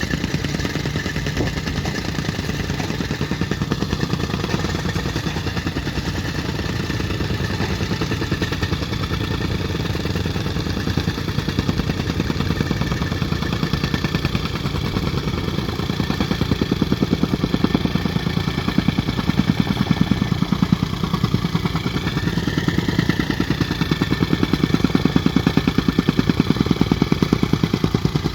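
An engine running steadily with a rapid, even pulsing, with a brief rise and fall in pitch about three-quarters of the way through, typical of construction machinery working at a concrete pour.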